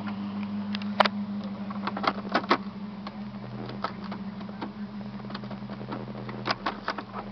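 Irregular short clicks of switches and buttons being worked in a car's cabin, over a steady low hum.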